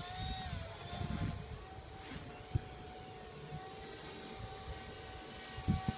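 Blade 130 X micro RC helicopter in flight: a steady high whine from its electric motor and rotors, its pitch dipping slightly a few times, with wind buffeting the microphone.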